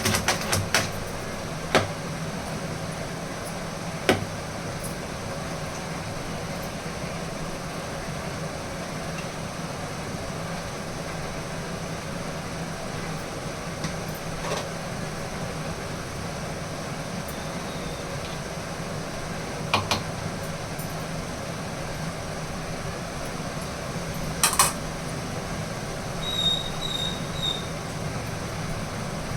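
Steady low hum, with a few sharp clicks and knocks several seconds apart and faint high chirps near the end.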